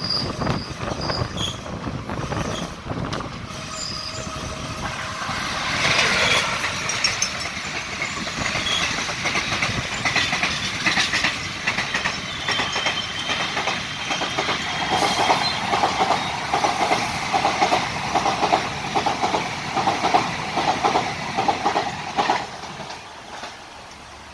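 Express passenger train running through a station: a steady rumble with a rhythmic clickety-clack of the wheels over rail joints and a brief thin wheel squeal midway. The noise falls away suddenly about two seconds before the end.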